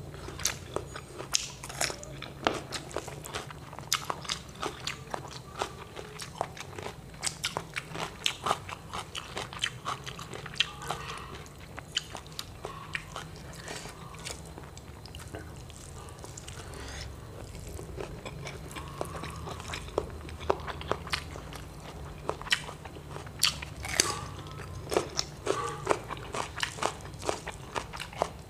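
A person chewing and biting crunchy food close to the microphone: irregular crisp crunches, often several a second, all the way through.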